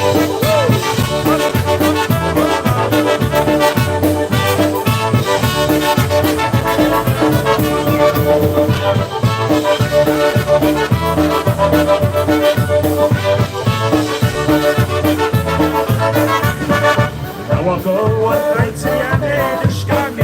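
Live polka band playing an instrumental passage, with a steady, even bass beat under sustained instrument melody.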